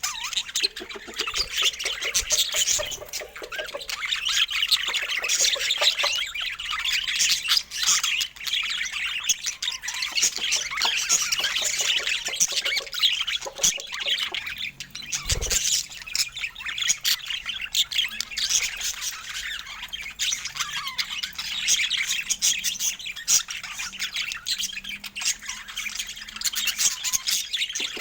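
Budgerigars chattering and chirping continuously in dense, overlapping warbles and squawks, with a single thump about halfway through.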